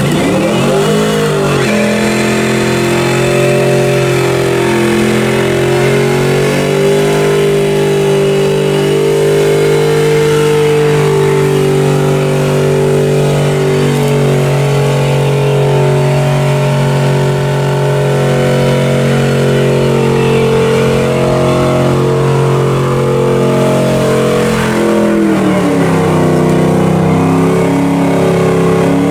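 A vehicle engine revs up at the start and is held at steady high revs for over twenty seconds. Near the end it drops back and settles at a lower, still steady speed.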